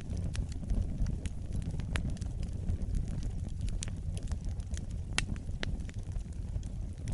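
Wood fire burning with a steady low rumble and irregular sharp crackles and pops, one of the loudest about five seconds in.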